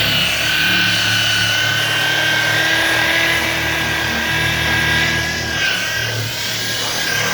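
Electric car buffer (polisher) running steadily with a high motor whine; a lower hum under it drops away about three-quarters of the way through.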